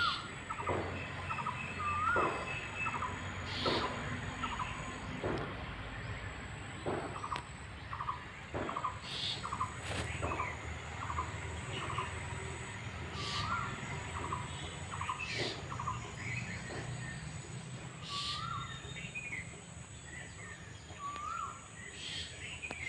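Birds calling: short hooked, upturned calls repeated every few seconds, with runs of quick short notes and occasional brief sharp clicks, over a steady low rumble.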